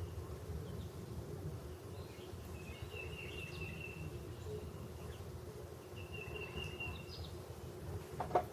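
Steady outdoor background hum with two drawn-out high, thin buzzing notes a few seconds apart, and a short knock just before the end.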